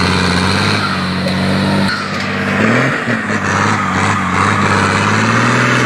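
Truck engine running steadily under load over a strong hiss, its pitch dipping and climbing back about halfway through.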